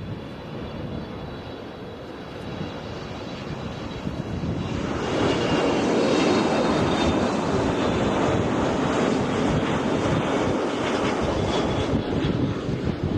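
Jet airliner landing, its engine noise swelling about five seconds in to a loud steady rush with a high whine over it, with gusty wind buffeting the microphone.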